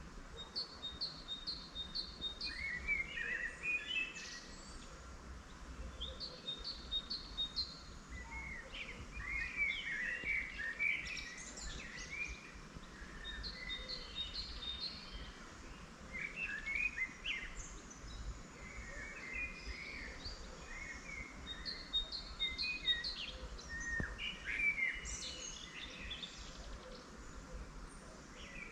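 Several wild songbirds singing in spring: one repeats a short phrase of four or five quick high notes every several seconds while others warble and chatter, over a steady low background rumble.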